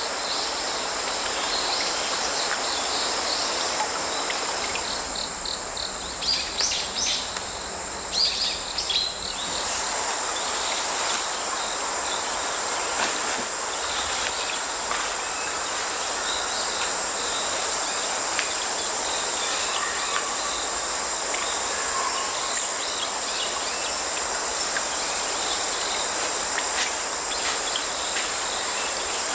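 A steady, high-pitched trill of autumn crickets and other field insects over the even rush of a flowing creek. A few seconds of sharp clicks and crackles come about a fifth of the way in.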